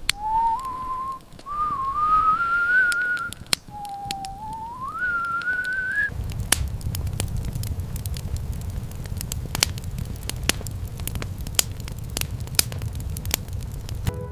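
A thin, whistle-like tone that slides upward in pitch twice. From about six seconds in it gives way to a fire crackling, with a low rumble and many sharp pops.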